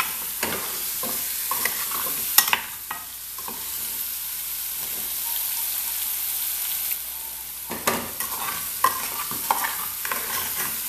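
Pequi fruits frying with garlic and salt in hot oil in a pot, sizzling steadily. A metal spoon stirs them, scraping and clinking against the pot in the first few seconds and again from about eight seconds in.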